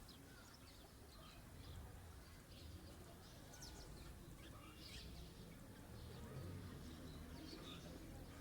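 Small birds chirping faintly, in scattered short high notes, over a low rumble of wind.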